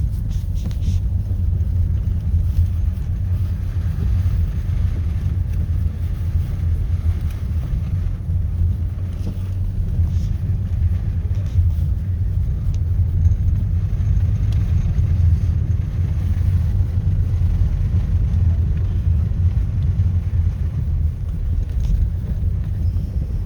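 A car driving, heard as a steady low rumble of road and wind noise.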